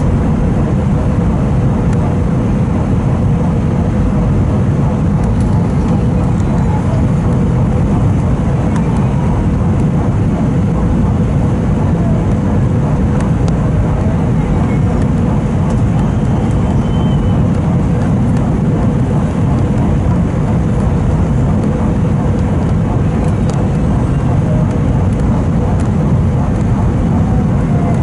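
Airbus A320 in flight on approach: a steady low roar of engines and airflow, with a faint steady hum.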